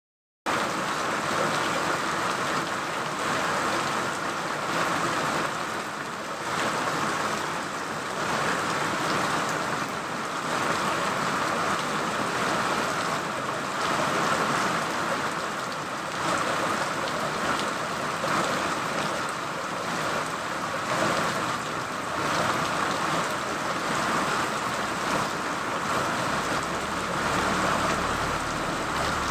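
Steady rain falling in a dense, even patter, with no pauses. A faint low rumble joins near the end.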